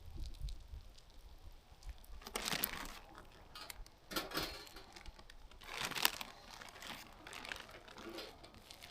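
Something crinkly being handled, rustling and crinkling in about four short bursts.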